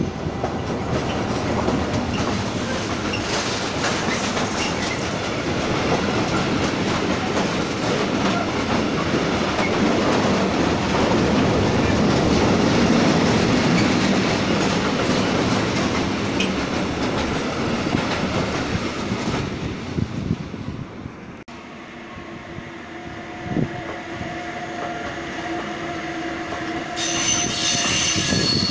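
Freight train passing at close range: a red DB diesel locomotive and its open freight wagons, with heavy, steady wheel clatter over the rails. About twenty seconds in the sound cuts abruptly to a train of hopper wagons rolling past, its wheels squealing in steady whining tones, with a shriller squeal near the end.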